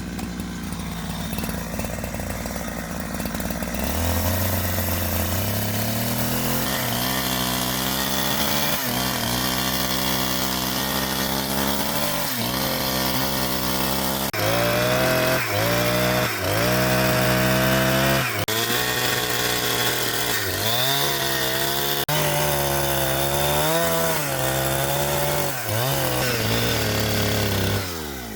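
Two-stroke chainsaw running at a fast idle, speeding up about four seconds in. It then cuts, its engine pitch dipping again and again as it bogs under load and recovering between dips, until it slows near the end.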